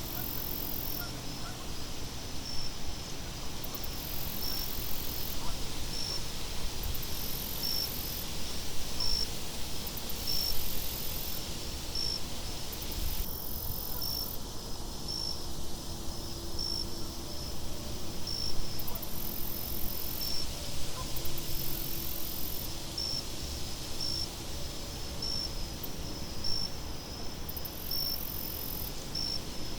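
Crickets chirping, a short high chirp about once a second, with bursts of a higher insect trill coming and going, over a steady low wind rumble.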